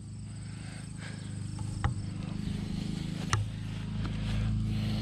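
Outdoor background of steady insect trilling over a low, steady hum, with two short, sharp clicks about two seconds and three and a half seconds in.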